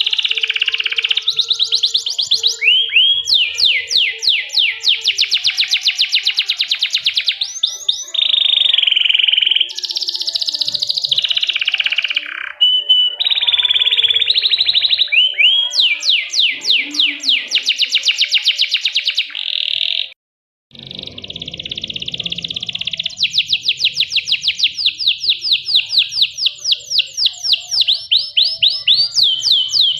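Domestic canary singing a long, continuous song of rapid trills and rolls, with held whistled notes in between. The song breaks off for a moment about two-thirds of the way through, then resumes.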